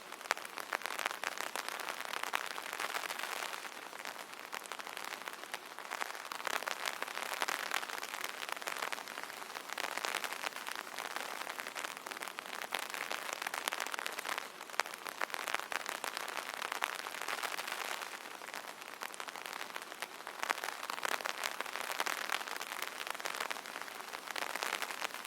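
Rain falling on an umbrella: a dense, continuous stream of small drop taps that grows and eases slightly every few seconds.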